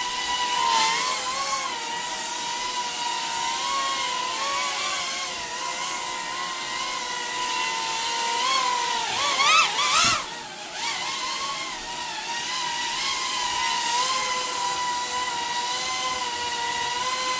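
Tiny whoop micro drone's motors and propellers whining steadily in flight, the pitch wavering as the throttle changes, with a quick run of rising and falling pitch swings about nine to ten seconds in and a brief drop just after.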